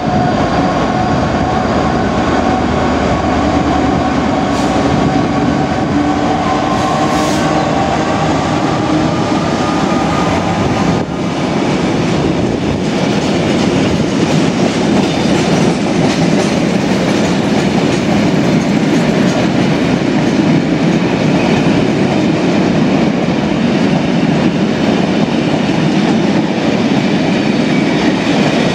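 A Class 66 diesel locomotive's two-stroke V12 engine drones as it passes at the head of a freight train. After about ten seconds the engine gives way to the steady rumble and clatter of loaded bogie tank wagons rolling by on the rails.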